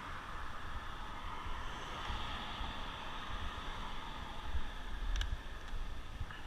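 Steady wind and road noise on a bicycle-mounted GoPro's microphone, with gusts of low wind rumble and a brief click about five seconds in.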